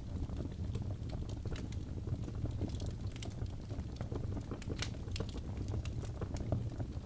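Wood fire burning in a fireplace: a steady low rumble of flames with frequent irregular crackles and pops, one sharper pop near the middle.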